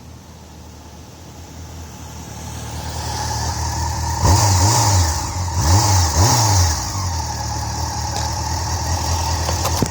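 2001 Honda CBR600 F4i's inline-four on its stock exhaust, growing louder as the bike approaches, then three quick rises and falls in engine pitch as it passes, then running steadily near idle.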